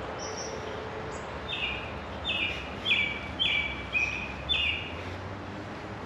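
A songbird singing a run of about six quick repeated two-note phrases, each note stepping down in pitch, over a steady background hiss.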